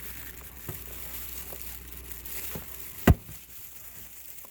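Kitchen handling sounds while seasoning raw chicken: a few soft clicks, then one sharp knock about three seconds in.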